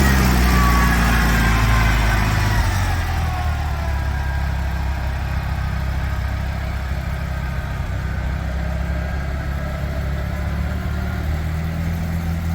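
Allis-Chalmers CA tractor's four-cylinder engine running. Its pitch falls over the first few seconds as it slows, then it idles steadily.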